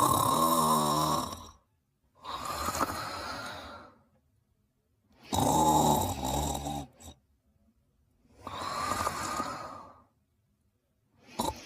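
Cartoon character snoring in a slow, steady rhythm. A louder, lower snore comes at the start, about five and a half seconds in and again at the end, each followed by a softer, breathier one a few seconds later, with brief silences between.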